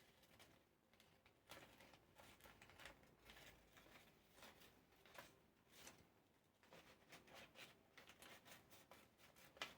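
Faint, irregular snips and rustles of scissors cutting out a paper hand shape.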